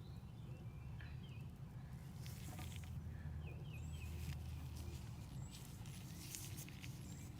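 A low steady machine hum, with a few faint short chirps from birds and some light clicks of handling.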